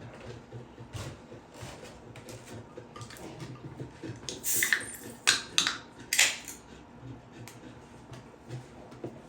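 Small metal tools and parts clinking on a workbench: scattered light clicks, with a handful of loud, sharp metal clinks about halfway through.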